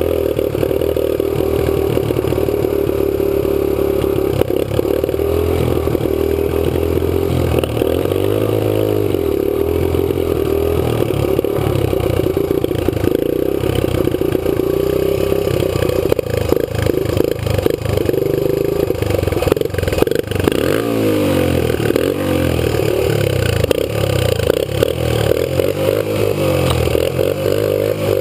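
Kawasaki KLX125 dirt bike's single-cylinder four-stroke engine running under way, its note rising and falling with the throttle, with frequent rattling knocks over it.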